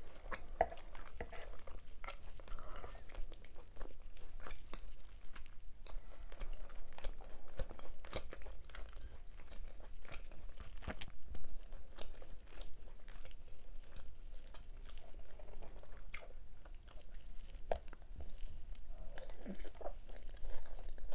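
A person chewing food close to the microphone, with many small wet mouth clicks and smacks at an uneven pace.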